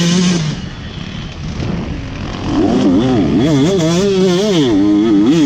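Motocross bike engine, recorded on board: held at high revs, then shut off about half a second in. From about two and a half seconds in, the revs rise and fall again and again in quick throttle bursts.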